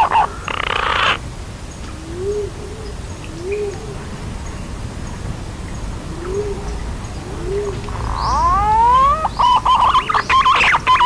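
Green pigeon (punai) calls from a lure recording: soft low coos in pairs, then a rising whistled glide about eight seconds in that breaks into loud, rapid whistled warbling near the end. There is a brief hiss just after the start.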